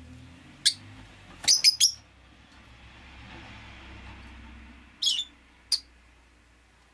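Rosy-faced lovebirds giving short, sharp chirps: a single call, then a quick run of three about a second and a half in, then a few more about five seconds in.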